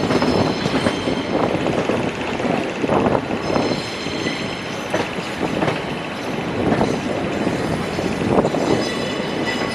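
Passenger train running on the rails: a steady noise of the moving coaches with irregular knocks, and faint high-pitched squeals about four seconds in and again near the end.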